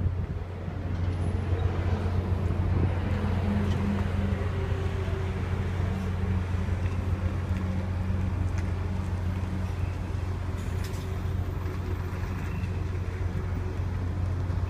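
Ship's engine droning steadily with a constant low hum, heard on board the vessel, with a wash of wind and water noise.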